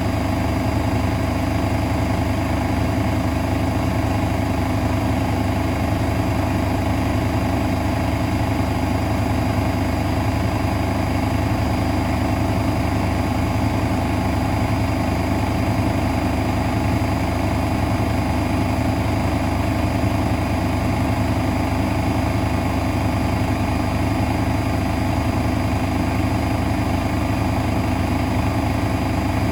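Miele Novotronic W921 front-loading washing machine running, its motor giving a steady hum with a few fixed tones and no change in speed.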